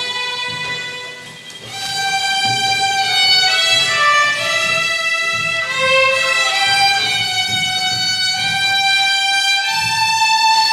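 Youth ensemble of Latin American instruments playing, a violin-led melody of long held notes over a soft low accompaniment. The music thins out about a second in and swells back shortly after.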